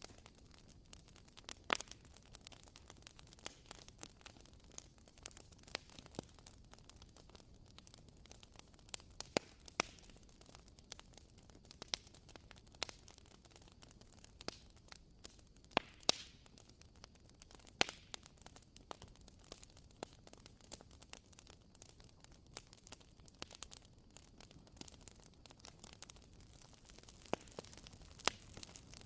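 Wooden wick of a WoodWick candle crackling like a small campfire: faint irregular ticks and pops, with a sharper pop every few seconds.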